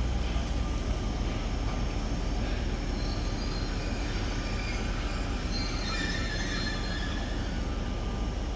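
A train running past on the rails with a steady, heavy rumble, and a faint high-pitched wheel squeal from about three seconds in.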